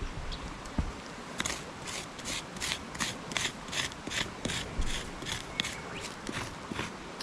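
Rhythmic scraping or brushing strokes, nearly three a second, starting about a second and a half in.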